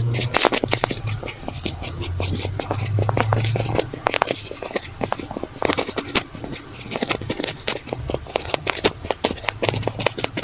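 A notebook cover scratched in quick, irregular strokes right up against the microphone. Low muffled rubbing comes in patches where the cover is pressed and massaged over the mic.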